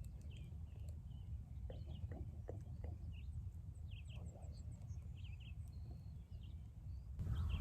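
Faint short bird chirps, scattered irregularly, over a steady low rumble of wind.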